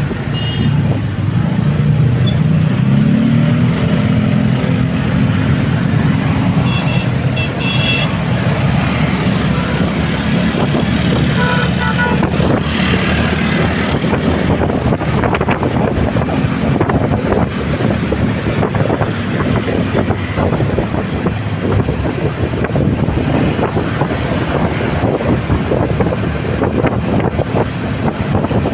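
Motorcycle riding in heavy road traffic: the engine runs and revs up about a few seconds in, with wind buffeting the microphone. Short horn beeps sound a few times, including a quick run of three near the quarter mark.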